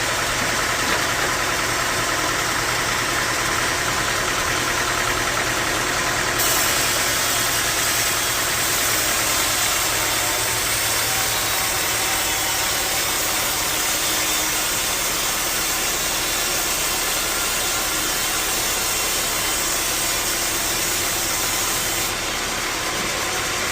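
Bandsaw sawmill running steadily. A high hiss joins about six seconds in and stops shortly before the end.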